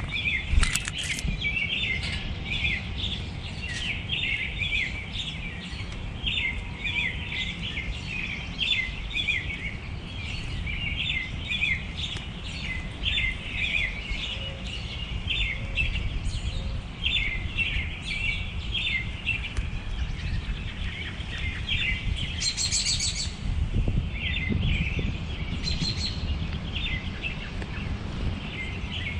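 Small songbirds chirping and twittering almost without pause, with a quick, high, rapid trill twice in the last third, over a steady low background rumble.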